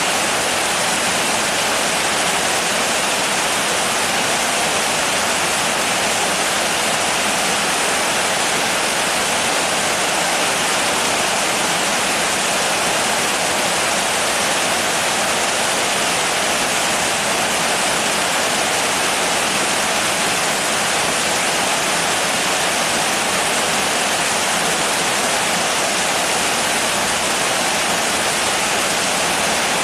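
Steady rain, a dense even hiss with no single drops standing out.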